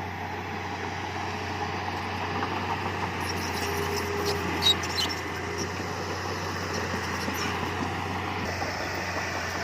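Heavy earthmoving machine's diesel engine running steadily, with a scatter of light clicks and clanks in the middle and one sharp knock about halfway through.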